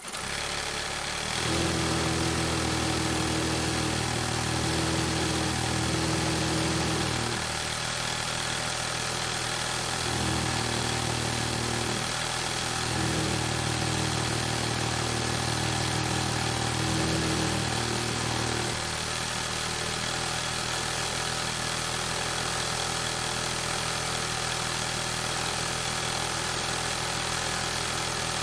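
A motor or engine running steadily, its low tone dropping away and coming back several times in the first twenty seconds, then running evenly.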